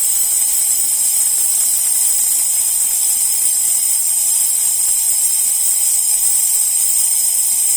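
Steam hissing steadily from the steam wand of a Klarstein Espressionata Gusto espresso machine, venting excess boiler pressure so the gauge can drop back to espresso-brewing pressure.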